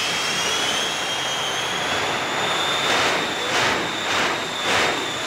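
Shockwave jet truck's three jet engines running with a steady high turbine whine. From about three seconds in, the roar surges in regular pulses roughly twice a second.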